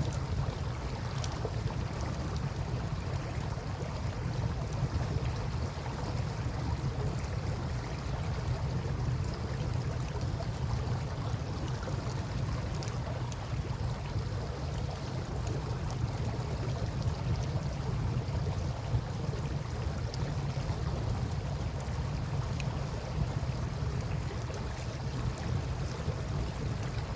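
Campfire crackling with faint scattered pops over a steady wash of river water and a constant low rumble.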